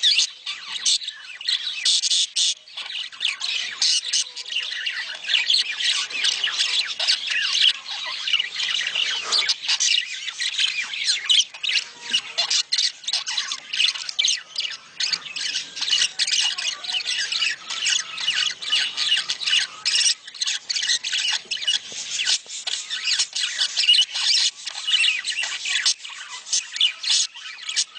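A flock of budgerigars chattering without a break: a dense stream of short high chirps, warbles and squawks. This is the budgie breeding chatter played to encourage caged birds to mate.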